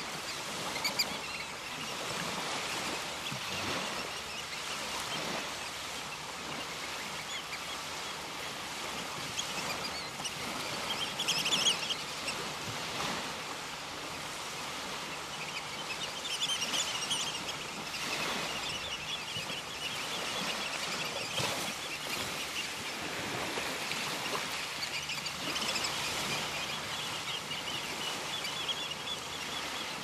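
Steady outdoor background noise with small birds chirping now and then, most clearly a little before halfway and again just after halfway.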